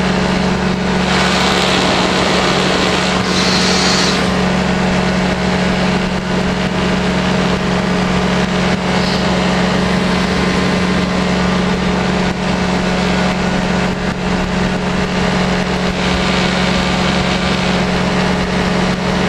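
Powered parachute's engine and propeller running steadily in flight, an even drone. A brief hiss rises over it twice in the first few seconds.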